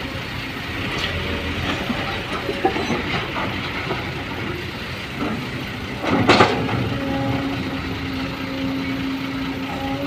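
A motor vehicle running with steady rumbling and a few clicks, then a short loud burst of noise about six seconds in, followed by a steady low hum.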